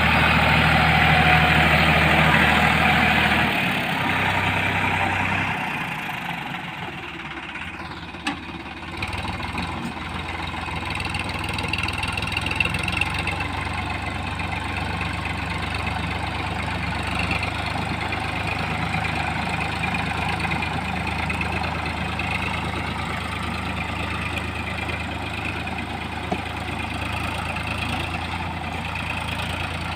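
Heavy diesel machine engine running steadily, louder for the first few seconds, easing down between about four and seven seconds in, then running on at an even pace, with a single click near eight seconds.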